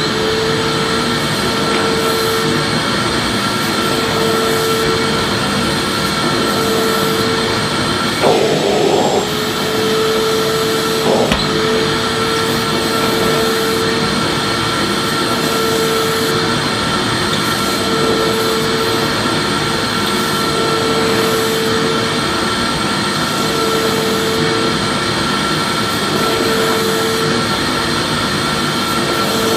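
Vacuum cleaner motor running steadily: a loud rush of air with a high whine and a mid-pitched hum that drops out and returns every second or two. A brief rustle about eight seconds in and a single click a few seconds later.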